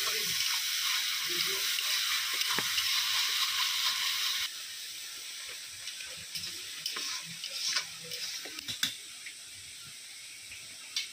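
Potatoes and onions sizzling in a hot black karai as a spatula stirs them. About four and a half seconds in the loud sizzle drops away to a quieter steady hiss, and scattered clicks and scrapes of the spatula against the pan follow.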